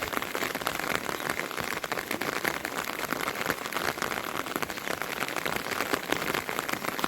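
Heavy rain falling steadily, a dense patter of many close drop impacts.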